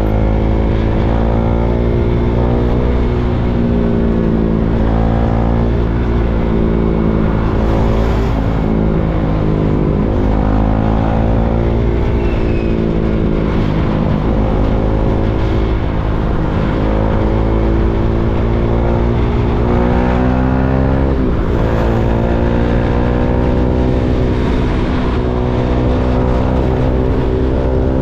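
KTM Duke 390's single-cylinder engine riding in slow traffic, its revs climbing and falling several times, with sharp drops about ten seconds in and again about twenty-one seconds in.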